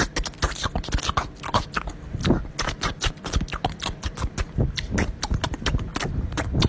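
Pet birds making rapid, irregular clicks and taps, several a second.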